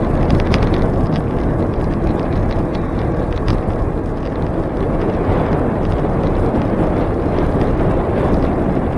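Steady rumble of wind and tyre noise on the microphone of a camera riding along on a moving bicycle, with a few light rattling clicks.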